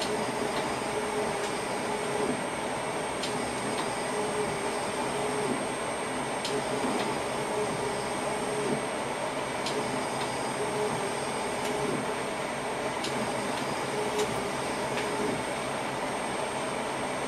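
Electric passenger train heard from inside the driver's cab while running: a steady rumble and hum with a thin high whine throughout. Faint ticks come every second or few.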